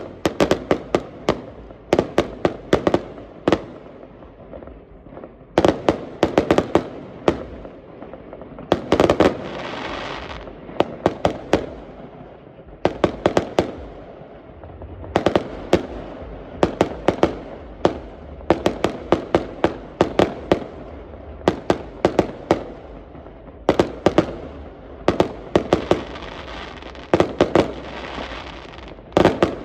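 Fireworks going off in rapid volleys of sharp bangs and crackles, a cluster every second or two, with a low rumble between the volleys.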